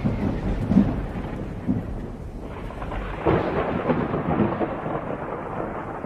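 Thunderstorm: thunder rumbling over steady rain, with a fresh louder roll of thunder about three seconds in.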